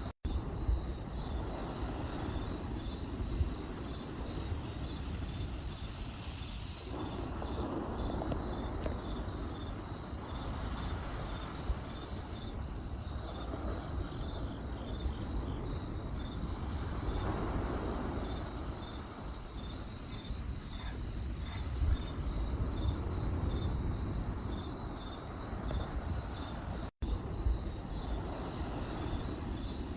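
Crickets chirping steadily in a high, fast pulsing trill over the low rushing and occasional small pops of a crackling campfire. The audio cuts out for an instant twice, near the start and near the end.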